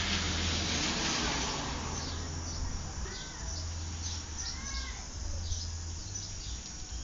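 Birds chirping: clusters of short falling chirps and two longer arching calls, over a steady low hum. A hissing rush fills the first second or so.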